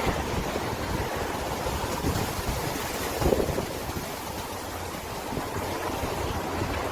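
Steady rushing noise, like wind blowing across the microphone.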